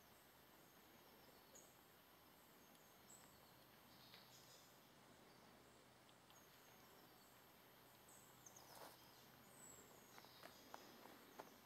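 Near silence in a forest, with faint, scattered high-pitched bird chirps and short calls. A few faint ticks come in the later part.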